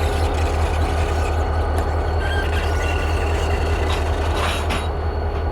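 Steady low engine rumble of a heavy vehicle, even in level, with a brief faint rasp about four and a half seconds in.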